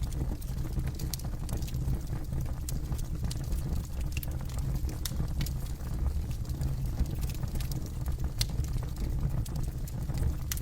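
Campfire burning with a steady low rumble and irregular sharp crackles and pops.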